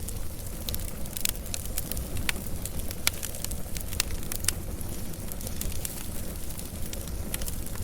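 Wood fire crackling: scattered sharp pops and snaps over a steady low rumble of flames, with the loudest pop about three seconds in.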